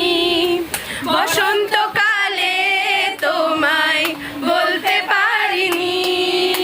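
Singing voices, female among them, holding long wavering notes between shorter sung phrases.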